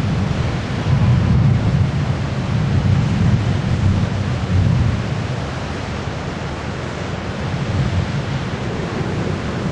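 Distant thunder rumbling low and long, louder in the first half and easing off later.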